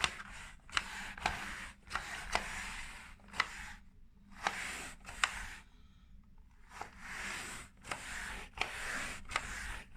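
Plastic pet hair remover roller rubbed back and forth over fabric: a run of brushing, scraping strokes, each with a sharp plastic click, pausing briefly twice.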